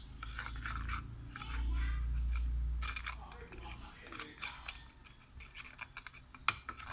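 Irregular scraping and clicking of thick parrot handfeeding formula being stirred in a container, the mix still lumpy, with a low rumble of handling about two seconds in.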